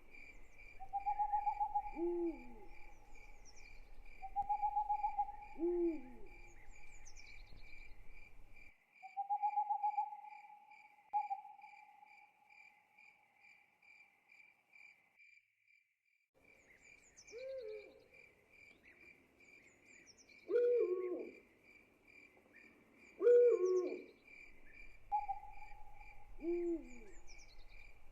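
Night ambience: an owl hooting repeatedly over a steady, pulsing cricket chorus, with other short calls mixed in. The sound drops out briefly about halfway through, then resumes.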